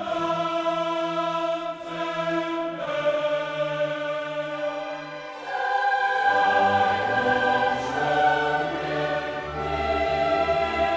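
Choral music: several voices singing long held notes that shift in pitch every second or so.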